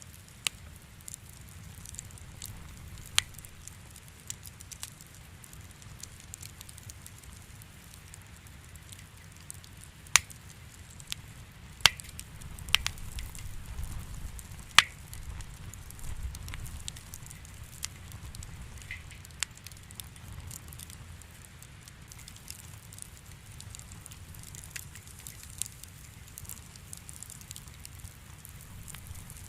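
Wood fire in a fireplace crackling: a steady low rumble and soft hiss with sharp pops scattered every second or few, a handful of them much louder than the rest.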